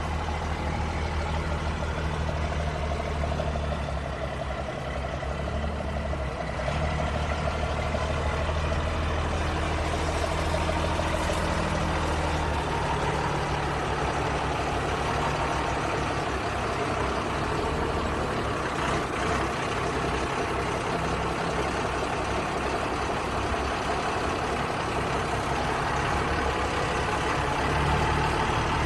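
Modified truck's engine running: a steady low drone for about the first twelve seconds, then a rougher, noisier sound that holds to the end.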